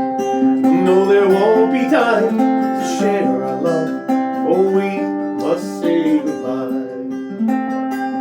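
Acoustic guitar playing a slow folk-ballad accompaniment, picked and strummed chords ringing on.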